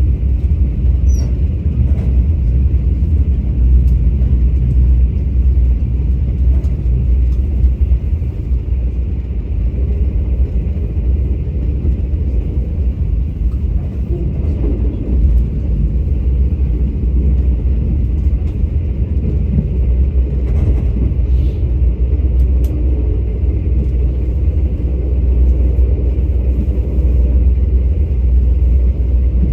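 Train running steadily, a continuous low rumble with a fainter hiss above it and a few faint ticks scattered through.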